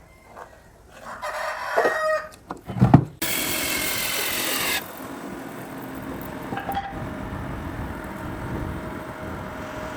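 A rooster crowing about a second in. Then a loud hissing noise cuts in for about a second and a half and stops abruptly, leaving a steady mechanical hum.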